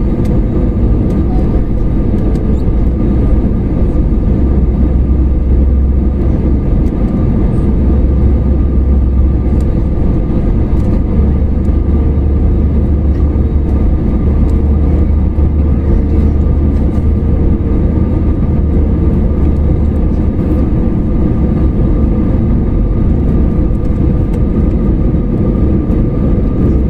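Steady, loud low rumble and hum inside a passenger airplane's cabin.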